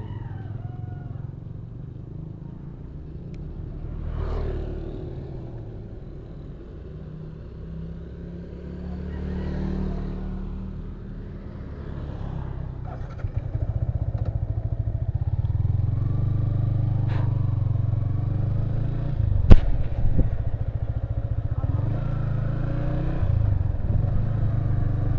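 Yamaha Vixion R's 155 cc single-cylinder engine running on the move, its pitch rising and falling with the throttle and gear changes. It gets louder about halfway through, and there is one sharp knock near the three-quarter mark.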